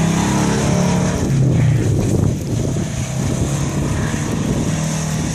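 1993 Subaru Legacy wagon's flat-four engine running under throttle as the car slides around in circles on snow. Its note drops a little over a second in, then runs lower under wind noise on the microphone.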